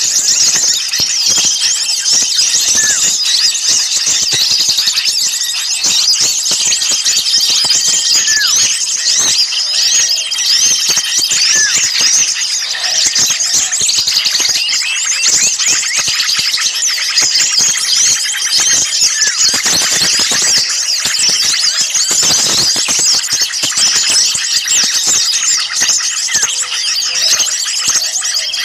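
A dense, noisy chorus of many small songbirds chattering and chirping without pause, with a short held high note repeating every couple of seconds. It is a bird-lure recording of agitated small birds, used to draw other small birds in.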